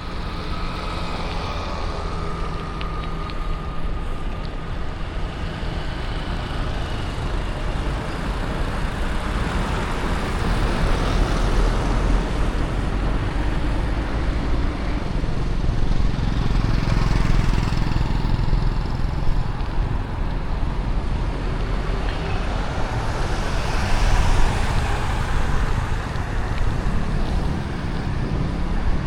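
City street traffic: the steady rumble of passing vehicle engines and tyre noise, heard from a moving bicycle. It grows louder from about a third of the way in and peaks near the end as vehicles pass close.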